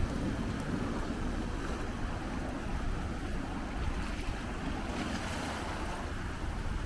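Big ocean waves surging and breaking on a rocky shore in a continuous rush, with wind buffeting the microphone in a fluctuating low rumble.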